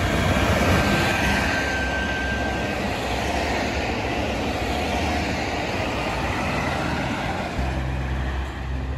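A train passing at speed: a loud, steady rushing noise that swells in the first second or two, with background music underneath.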